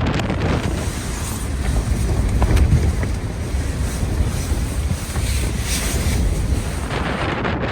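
Strong wind gusting against an Island Packers Pokhara backpacking tent, with a heavy low rumble of wind on the microphone that swells and eases.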